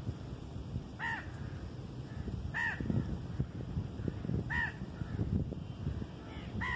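A bird calling four times, short calls that rise and fall in pitch, about one and a half to two seconds apart, over a low rumble of background noise.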